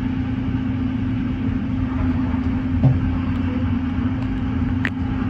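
Passenger train running, heard from inside the carriage: a steady low rumble and hum, with a light knock about three seconds in and a sharp click near the end.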